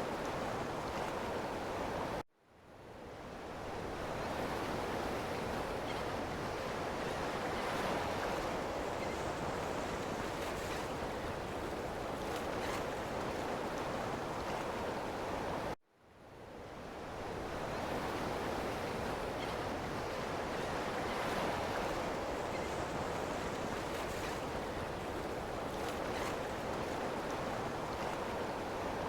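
Ocean surf: a steady wash of waves. It cuts off abruptly about two seconds in and again midway, each time fading back in over a second or two, the joins of a looped recording.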